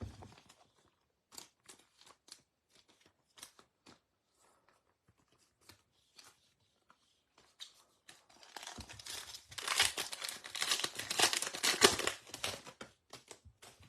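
A trading-card pack wrapper being torn open and crinkled for several seconds, the loudest stretch coming past the middle, after a run of light clicks and rustles as cards are handled.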